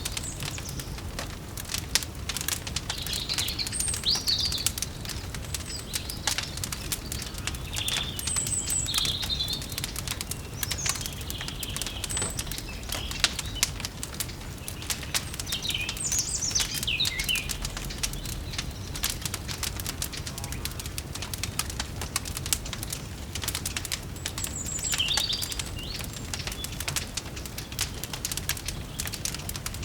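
Small songbirds chirping in short phrases every few seconds, over a dense constant crackle of a wood fire and a low steady rumble.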